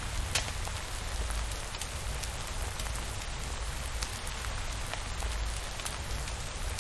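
Steady rain falling, with scattered sharp drop ticks over a low, even rumble.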